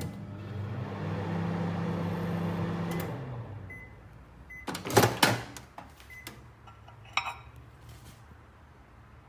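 Microwave oven running with a steady hum that dies away about three and a half seconds in. Short high beeps follow, then a loud clunk about five seconds in, and another beep a couple of seconds later.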